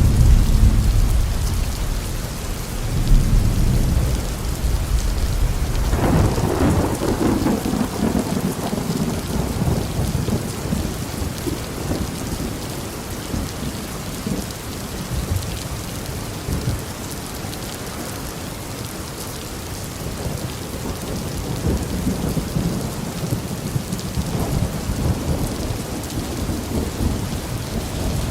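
Thunderstorm: steady heavy rain with rolling thunder. A deep rumble fades in the first seconds, a louder crack-and-roll of thunder comes about six seconds in and dies away slowly, and another low rumble swells near the end.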